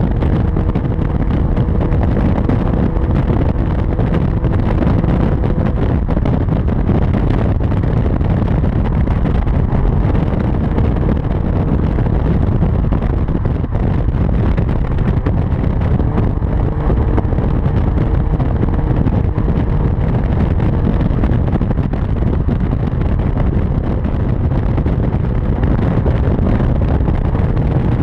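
Hyundai Genesis with a Tsudo aftermarket exhaust running steadily: a constant low exhaust drone with a faint steady tone above it, holding even throughout without revving up or down.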